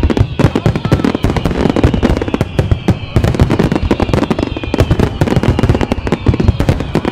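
Dense, continuous barrage of aerial firework shells bursting, many overlapping bangs a second.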